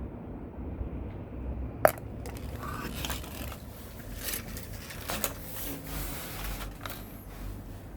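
A low steady rumble, with a sharp click about two seconds in followed by several seconds of scattered clicking and scraping.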